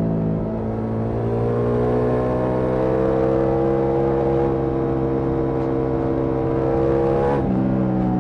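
Ducati Multistrada V4S Rally's V4 engine through an Akrapovic exhaust, under way. The pitch dips about half a second in, then climbs steadily as the bike accelerates, and a sharp upshift near the end drops the revs.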